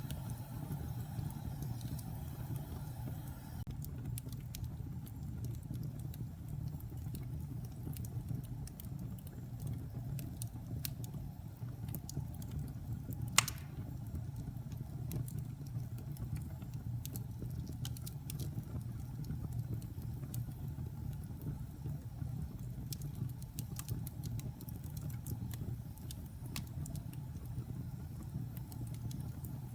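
Wood fire burning in a fireplace: a steady low rumble with scattered small crackles and one loud pop a little under halfway through.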